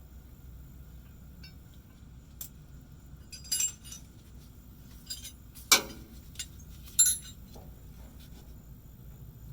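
Metal tools and parts clinking and tapping during hand work on the fuel pump fittings: a few sharp clinks, the loudest just past halfway and another about a second later.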